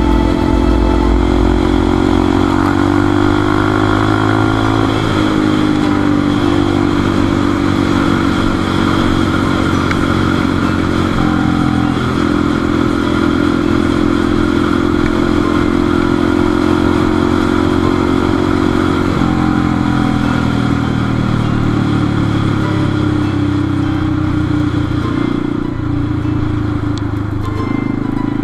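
Motorcycle engine running steadily while riding, heard on board, its note stepping to a new pitch a few times as the revs change.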